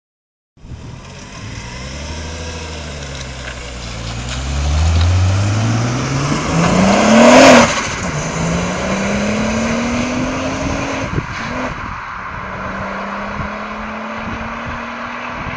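VW Vento with a turbocharged R32 VR6 engine accelerating hard past: the engine note rises through the revs, loudest as the car goes by about halfway through, then drops at a gear change and pulls up again. After another shift it settles to a steadier note as the car drives away.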